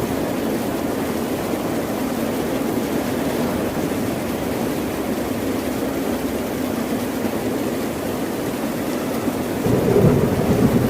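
Ocean surf washing steadily on the shore, with a deeper surge as a wave breaks near the end.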